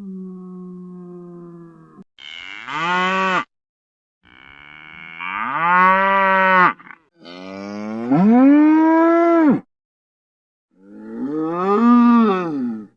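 An ox mooing: a string of about five separate moos, each with a pitch that swells up and falls away, cut apart by short clean silences as in an edited sound-effects reel.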